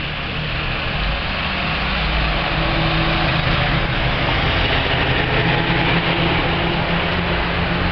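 A motor vehicle's engine running with a steady low hum under a loud hiss, growing a little louder over the first few seconds.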